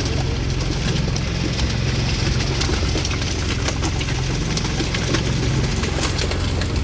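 Engine on a fishing boat running steadily at low revs, a constant low hum with scattered light clicks over it.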